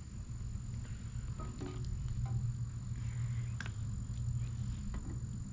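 A few light clicks and faint scraping of hand work cleaning a rusty screw. Under them run a steady low hum and a thin, steady high-pitched whine.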